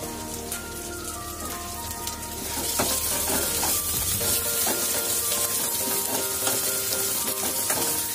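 Garlic, Thai chilies and cut French beans sizzling in hot oil in a non-stick pan on high flame. The sizzle gets louder about two and a half seconds in as a wooden spatula stirs them, with short scrapes and knocks of the spatula on the pan.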